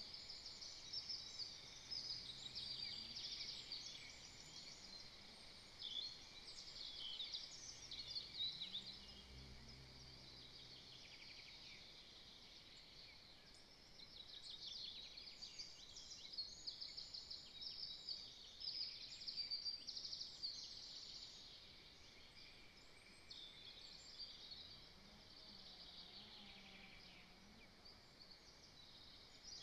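Several small songbirds singing faintly, with many short chirps and trills overlapping.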